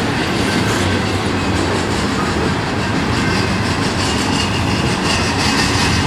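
Norfolk Southern intermodal freight train rolling past close by, its cars making a steady, loud rumble of steel wheels on rail with clickety-clack over the rail joints.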